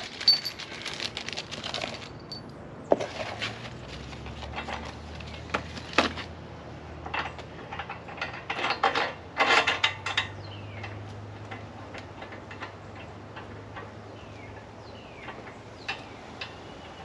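Irregular handling noises: clinks, knocks and rustling, busiest in the first two seconds and again about nine to ten seconds in, with a few faint bird chirps later on.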